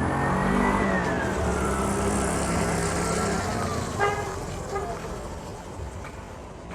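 A motor vehicle passes close by. Its engine runs with a whine that rises and then drops in pitch as it goes past. About four seconds in there is a brief horn toot.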